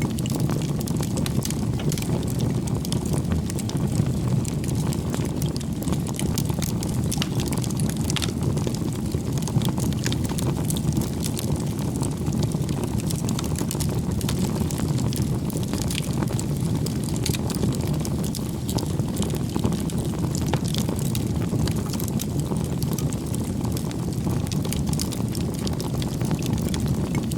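Bonfire of burning firewood: a steady low roar of flames with frequent sharp crackles and pops from the wood.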